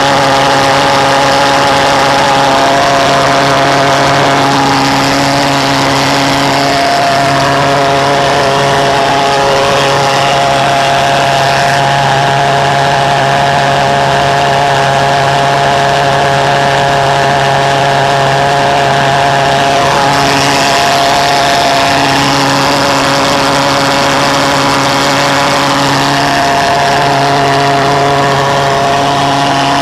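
Reed-valved pulse jet engine running continuously, a loud, steady drone of one unchanging pitch with strong overtones.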